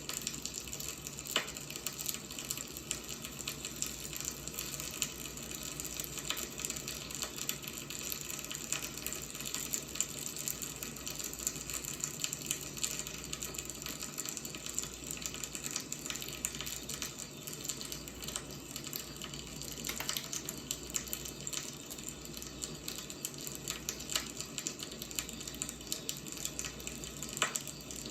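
Wood fire burning with a steady hiss and frequent small crackles, a few sharper pops standing out now and then.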